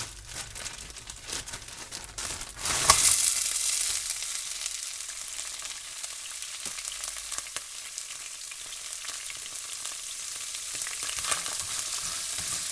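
Frozen bell peppers dropped into a hot skillet. A few light rustles come first; about three seconds in comes a sudden loud hiss, which settles into steady sizzling as the frozen peppers fry.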